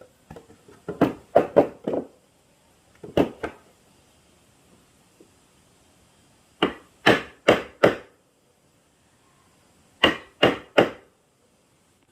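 Sharp blows of a hand tool on wood, coming in groups of two to four strikes about a third of a second apart, with pauses of a couple of seconds between groups.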